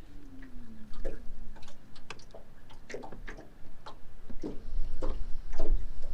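Irregular clicks and light taps from handling a just-caught crappie and fishing tackle in a boat, with a low rumble building from about four and a half seconds in.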